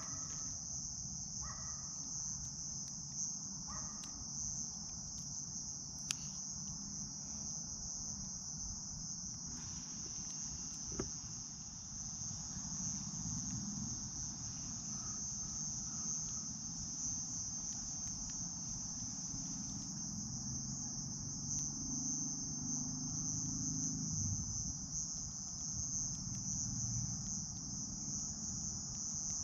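Crickets chirring in a steady high-pitched chorus over a low rumble, with a couple of sharp pops from a crackling campfire, one about six seconds in and one about eleven.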